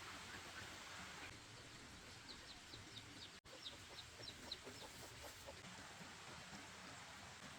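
Chickens clucking faintly in a run of short, high notes, several a second, in the middle stretch, over a low background hiss.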